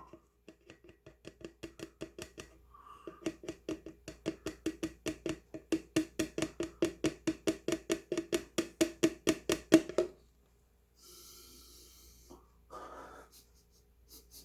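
A person gulping down a drink in a rapid, unbroken run of swallows for about ten seconds. The swallows grow louder and stop abruptly, followed by a breath out and a short gasp.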